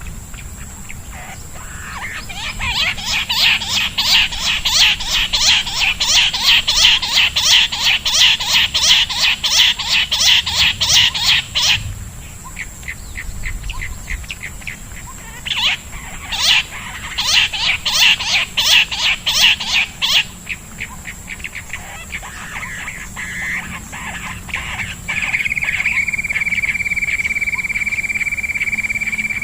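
Bird calls in rapid trains of sharp repeated notes, in two long bouts with a pause between them. Near the end a single steady high tone takes over.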